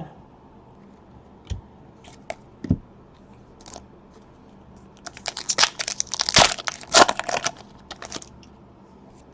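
Foil wrapper of a trading-card pack being torn open and crinkled: a few light clicks and rustles, then a dense crackling tear from about five seconds in, lasting around three seconds.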